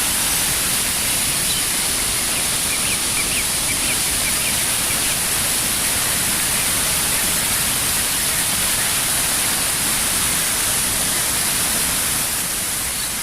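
Floodwater of a rambla, a seasonal stream running full after days of rain: a steady rush of water that starts to fade near the end.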